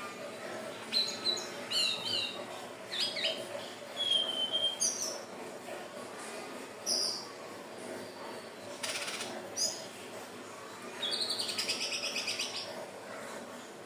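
Indigo flycatcher (sikatan ninon) singing: short, high whistled notes and chirps with pauses between them, then a rapid trilled phrase about eleven seconds in, over a faint steady hum.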